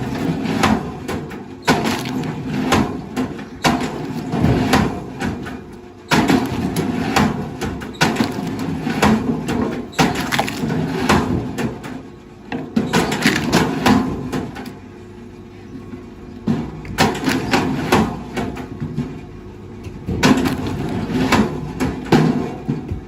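Wood cracking and knocking in repeated bursts of clustered impacts, with short quieter gaps between them.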